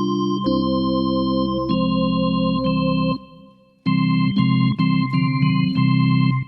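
Organ tone on a Casio AiX digital keyboard: held chords that stop abruptly about three seconds in, then after a short gap a series of short, detached chords.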